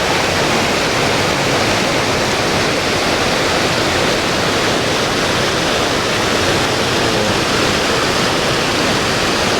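Steady rush of a waterfall and stream in spate, running high and fast with rainy-season water.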